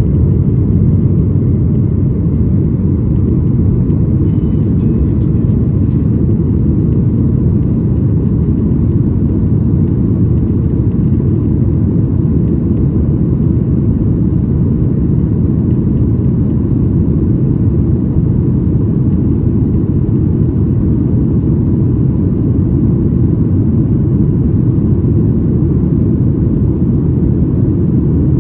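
Steady low rumble inside the cabin of a Boeing 737-900ER, from its CFM56-7B jet engines and the rushing air along the fuselage, holding an even level with no rise or fall in pitch.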